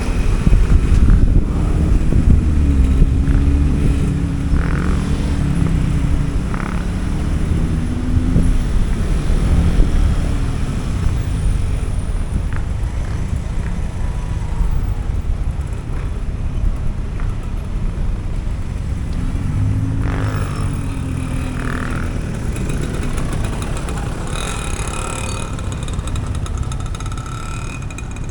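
Motorcycle riding in traffic. A dense low rumble runs throughout, and the engine note rises and falls with the throttle in the first several seconds and again about twenty seconds in.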